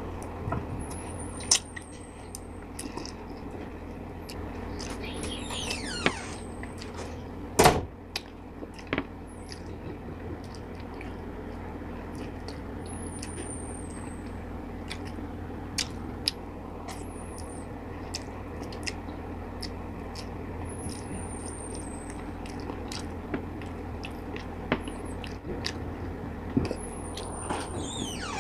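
Close-miked chewing of braised chicken feet, with frequent small clicks and mouth smacks. A single sharp knock comes about eight seconds in.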